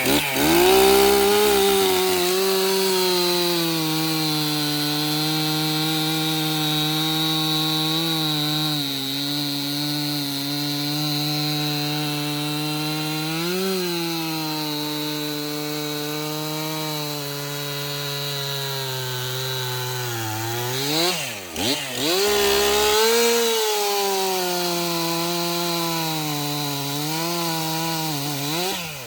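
Gas chainsaw running at high revs as it crosscuts a log into shorter lengths, its engine pitch wavering. About two-thirds through, the engine drops briefly and revs back up, and it stops near the end.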